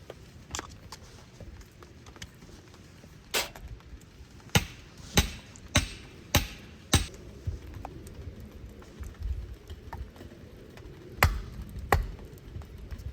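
A run of sharp striking knocks, about six blows a little over half a second apart, then two more near the end.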